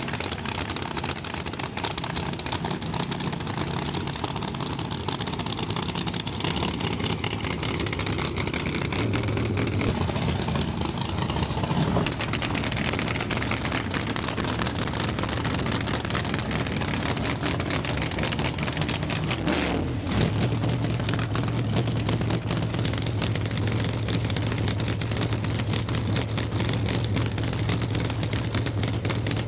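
Drag race car engine running with a steady rush of noise. The sound shifts about 12 s and again about 20 s in, after which a low steady hum holds.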